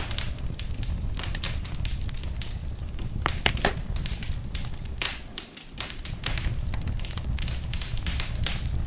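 Wood fire burning in a fireplace, crackling with frequent sharp pops at irregular intervals over a steady low rumble of the flames.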